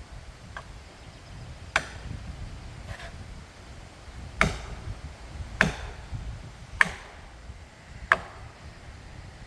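A hand striking tool lands blow after blow on wood, roughly one every 1.2 seconds: five sharp blows, each with a brief ring, and two fainter ones early on.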